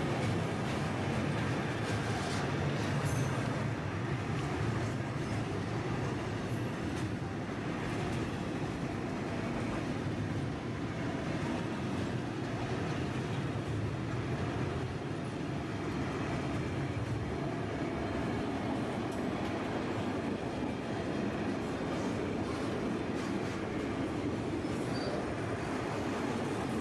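Freight train rolling by: a steady rumble of wagons on the rails, with scattered light clicks.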